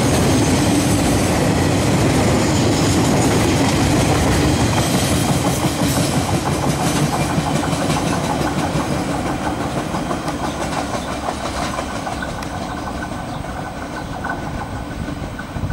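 Freight wagons loaded with logs rolling past on steel rails, the wheels clicking over the track, the sound slowly fading as the train moves away.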